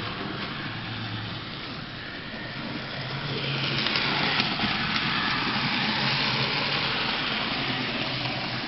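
Model Santa Fe Northern steam locomotive running on the layout track, its electric motor and wheels making a steady whirring rumble. It grows louder about three seconds in as the train comes close, then slowly fades.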